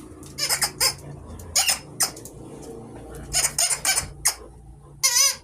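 Chickens clucking in short, irregular bursts, with a louder, wavering squawk near the end.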